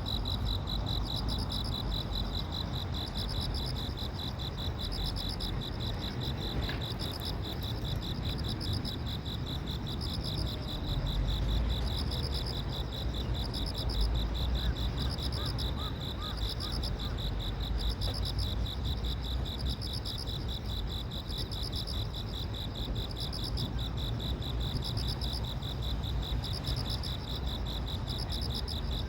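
Steady chorus of insects trilling: a rapid, high-pitched pulsing that never stops, over a constant low rumble.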